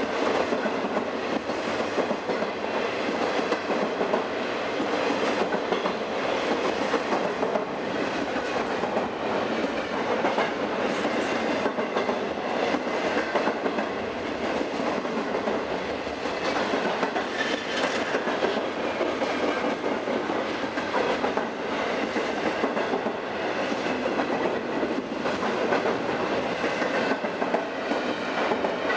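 Double-stack container well cars of a long freight train rolling past at close range: steady running noise of steel wheels on the rails, with rapid clicks throughout.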